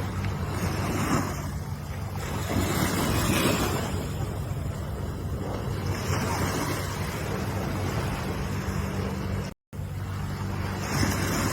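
Ocean waves washing in and receding, swelling about every two to three seconds over a steady low hum. The sound drops out for a split second about three-quarters of the way through.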